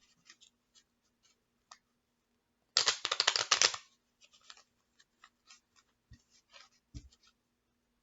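Tarot cards being shuffled: a dense burst of rapid card flicks lasting about a second, about three seconds in, then scattered light clicks and taps of cards being handled.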